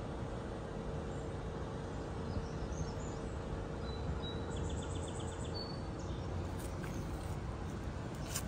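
Steady outdoor background noise with a low hum, and a small bird chirping and trilling briefly about midway through.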